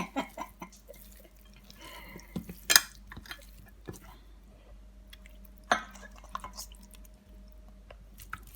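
Small wet squelches and clicks of hands working spice seasoning and lemon juice into raw fish pieces in a bowl, with a sharper click about three seconds in and again near six seconds.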